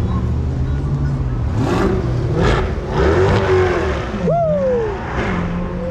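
Car engine running steadily, with a brief rev that rises sharply and falls away about four seconds in.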